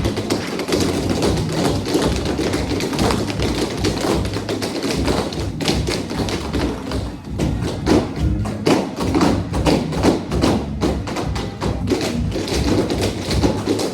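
Tap shoes striking the floor in a rapid, irregular run of taps and heavier thuds, with music playing underneath.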